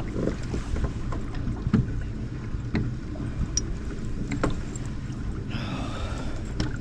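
Steady low rumble of wind and water on a small fishing boat, with scattered knocks and clicks from gear being handled. A brief wavering whine comes near the end.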